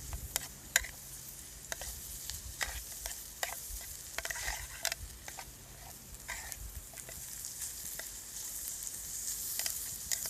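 Food sizzling in a pan over a Trangia spirit stove, with a utensil clicking and scraping against the pan as it is stirred. The sizzle grows louder near the end.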